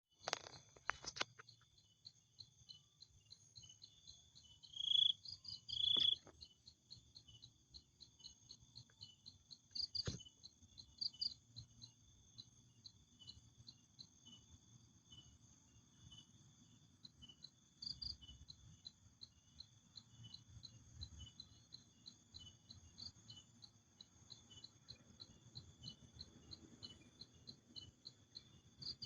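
Crickets chirping steadily in an even, high-pitched rhythm, about two pulses a second. A few louder short chirps stand out about five, six and ten seconds in, along with a couple of faint clicks.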